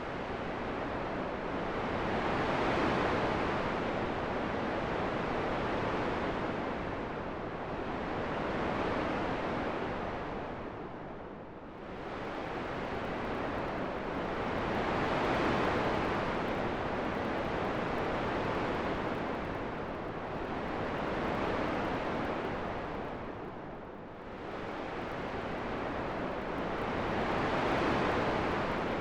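Wind rushing in a continuous hiss that swells and eases in slow gusts, dipping briefly about every twelve seconds.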